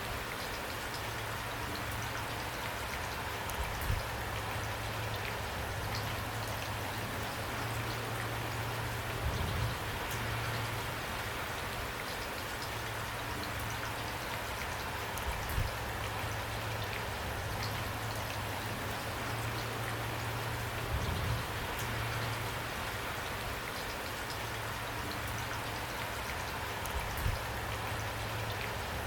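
Steady rain falling, with a few louder single drops knocking down about every five or six seconds.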